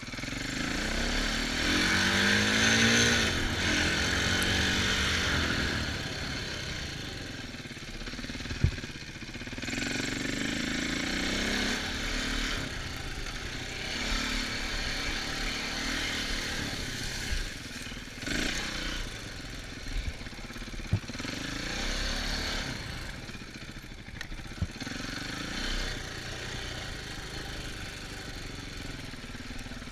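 Dirt bike engine revving up and falling back again and again as it accelerates and shifts over rough ground, over a steady rush of wind. A few sharp knocks stand out.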